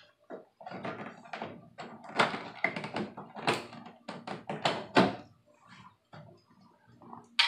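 Irregular knocks, taps and clicks of a car's interior door panel being worked loose by hand, the loudest about halfway through.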